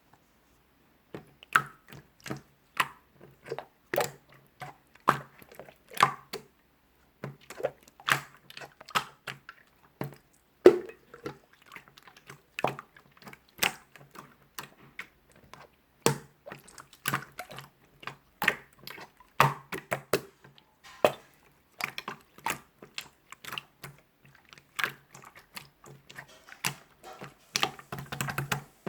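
Close-up, irregular taps and clicks of small objects being handled, one to a few a second, with short pauses between runs.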